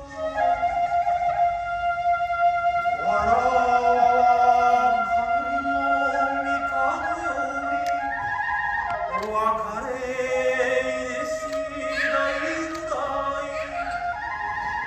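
Kagura stage music: a chanted, long-held sung vocal line over sustained flute notes, the voice gliding between pitches from about three seconds in.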